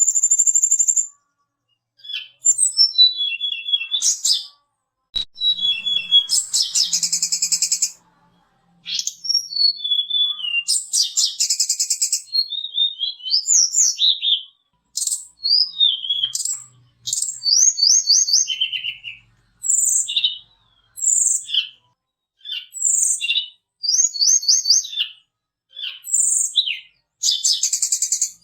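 Tledekan gunung (hill blue flycatcher) singing a varied, full song: quick high whistled notes, sliding phrases and rapid trills, delivered in bursts of a second or two with short pauses between.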